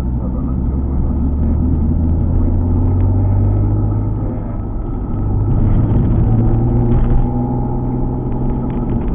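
Alfa Romeo 147 GTA's 3.2-litre V6 engine pulling the car along, its note rising gradually over about the first six seconds, then holding steady.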